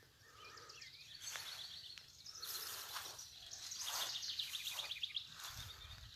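Songbirds singing in rapid trilled runs of high chirps, with soft irregular swishes of steps through grass.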